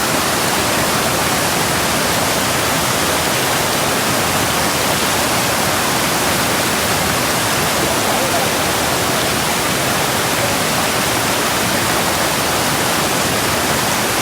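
Rushing water in a steady, unbroken rush of loud noise with no swells or pauses, like a waterfall or rapids.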